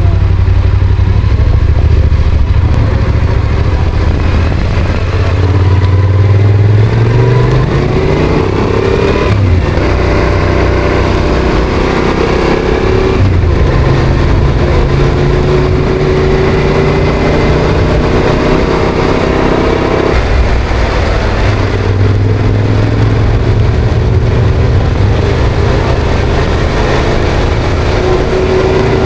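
Yamaha Ténéré motorcycle engine accelerating through the gears: the pitch climbs and drops sharply at each of three upshifts, the last about two-thirds of the way in, then the engine holds a nearly steady cruising note.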